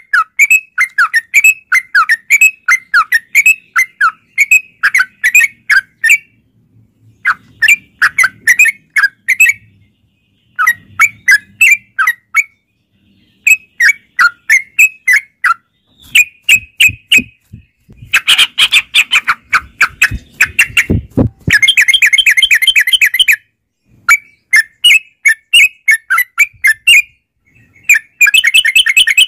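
Yellow-vented bulbul (trucukan) song: runs of quick, bubbly chattering notes broken by short pauses. The calls are very loud and turn harsh and distorted for a few seconds past the middle.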